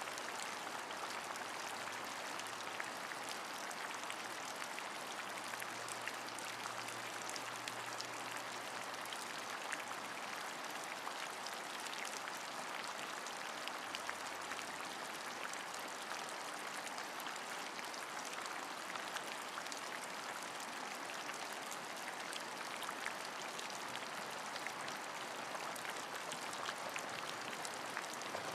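Steady rain: a dense, even hiss of falling drops, with many small, sharper drop ticks scattered through it.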